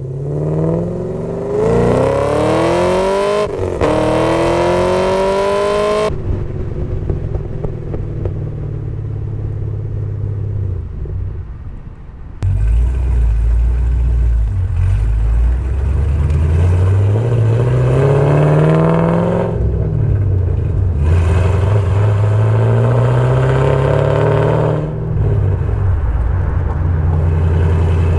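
Chevrolet Camaro engine through an XS Power headers-back exhaust with mufflers, accelerating hard: the exhaust note climbs in pitch, dips once for a gear change and cuts off about six seconds in. After a lower, rougher stretch it jumps up suddenly about halfway through and climbs in two more pulls, then settles to a steady low drone.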